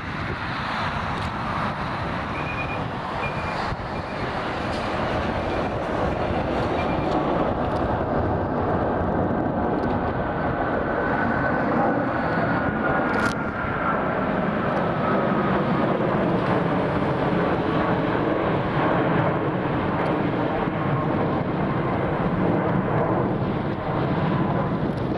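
Boeing 777-300 jet airliner taking off, its twin Rolls-Royce Trent turbofans running steadily at takeoff power. A thin fan whine falls slowly in pitch through the middle of the stretch as the plane passes and climbs away.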